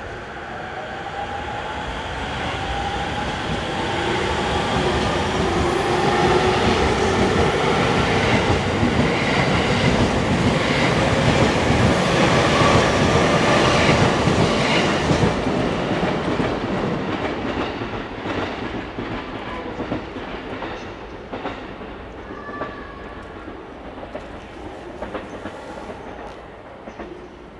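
An orange-striped Musashino Line electric commuter train runs past on the adjacent track. Its motor whine slides up in pitch under the wheel and rail noise, which swells as it draws level and fades as it moves away. Scattered clicks of wheels over rail joints follow as it leaves.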